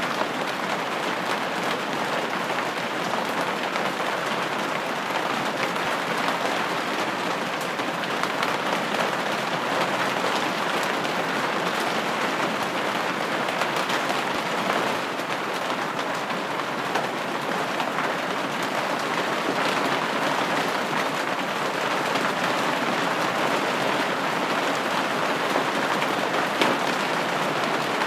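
Steady rain falling on a window pane: a constant patter of drops hitting the glass, even in level throughout.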